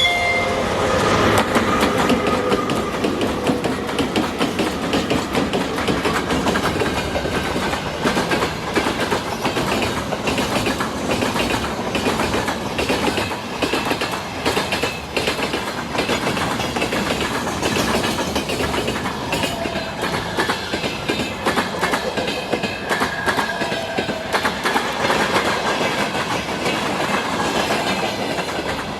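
Freight train wagons rolling past, wheels clacking over rail joints in a continuous stream of knocks. A tone dies away in the first second or two.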